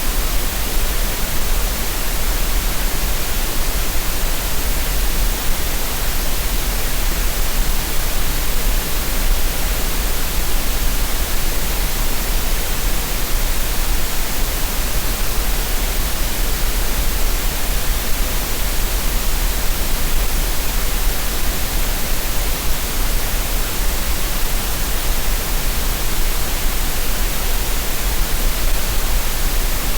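Steady synthetic green noise for tinnitus masking: an even, unbroken hiss with a deep rumble beneath, never changing.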